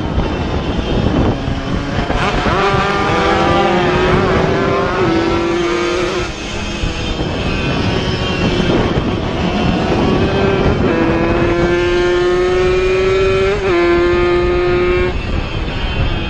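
Two-stroke racing motorcycle engines accelerating hard, twice: each time the engine note climbs steadily, drops briefly at a gear change and climbs again. A steady rush of wind noise runs underneath.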